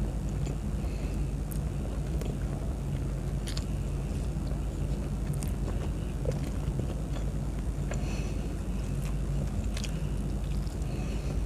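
Steady low background hum with faint, scattered clicks and smacks of someone eating.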